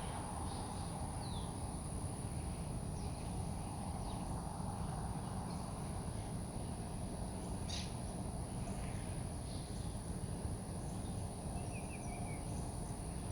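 Outdoor ambience of a steady high-pitched insect drone over low background noise, with a few short, faint bird chirps here and there and a brief descending trill near the end.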